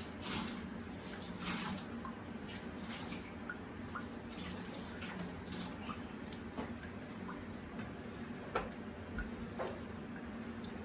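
Water dripping irregularly from the open hot water heater connection after the line was drained, with scattered small drips and clicks over a steady low hum.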